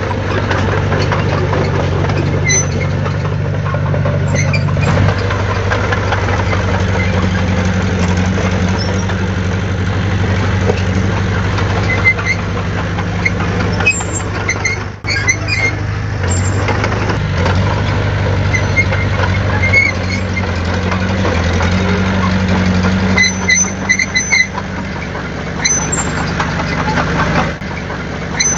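Diesel engine of heavy earthmoving equipment running steadily, its note shifting slightly a few times, with brief high squeaks and metallic clinks above it.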